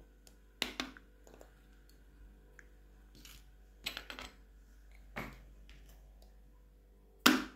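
Small plastic slime pots and lids being handled: a scattered series of sharp clicks and knocks, the loudest near the end.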